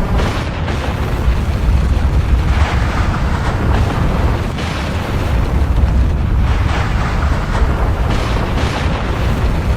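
Volcanic eruption: a continuous deep rumble with irregular surges of hissing noise every second or two.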